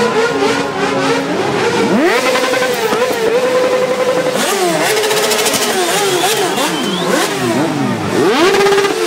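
Several motorcycle engines being revved hard, their pitch sweeping up and down and overlapping. One engine is held at high revs for a couple of seconds in the middle.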